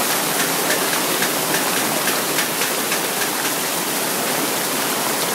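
Heavy rain pouring down in a steady, loud rush, with frequent light ticks of drops striking.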